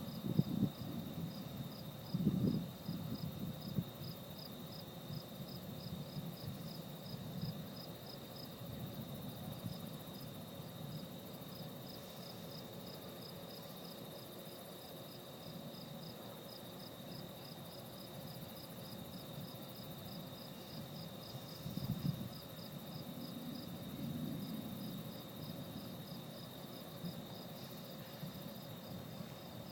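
Night insects, crickets, chirping in an even rhythm over a steady high trill. Low rumbles swell briefly near the start and again about two-thirds of the way through.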